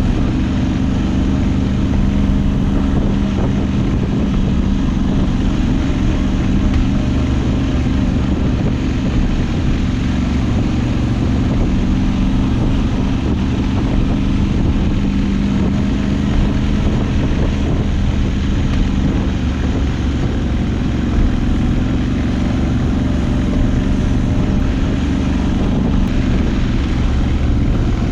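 Moto Guzzi V85TT's air-cooled V-twin engine running steadily at a constant pace while riding, with wind noise on the microphone.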